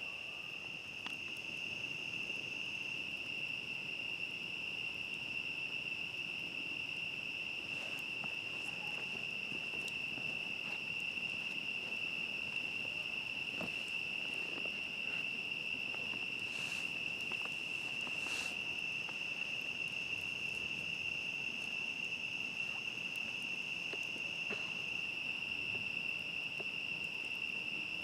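Crickets singing a steady, high-pitched chorus, with a campfire giving scattered small crackles and two sharper pops a little over halfway through.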